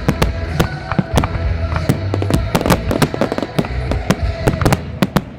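Fireworks going off in rapid succession: many sharp bangs and crackles, several a second, over a low rumble, thinning out near the end.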